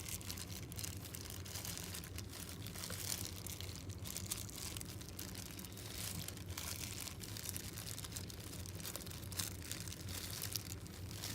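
Dry, irregular crackling and crunching from a dried whole-mackerel cat treat being broken into small pieces, going on throughout.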